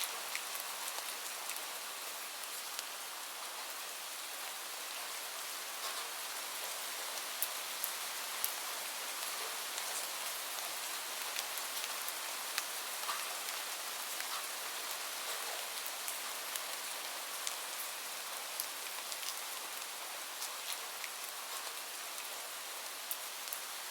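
Steady rain falling, an even hiss with scattered sharp clicks of drops or crackles throughout.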